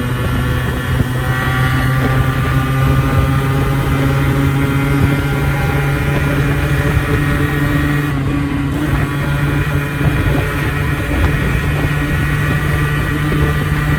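Yamaha RX100 two-stroke motorcycle engine running steadily at a fairly constant engine speed, its pitch drifting only slightly.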